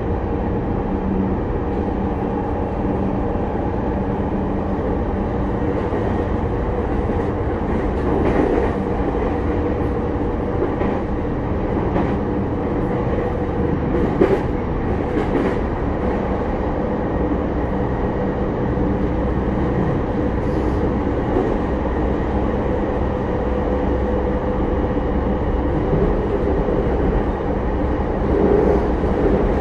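Interior running noise of a Sotetsu 10000 series electric train car under way: a steady rumble of wheels on rail with a steady hum and a few rail-joint clacks, growing a little louder near the end.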